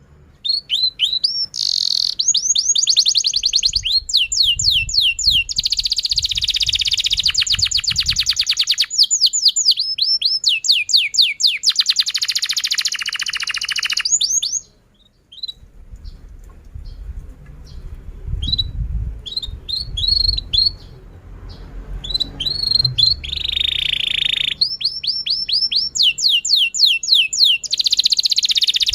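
Domestic canary singing a long, continuous song: fast runs of repeated down-slurred chirps alternate with rapid buzzy rolls, with a short break about halfway through.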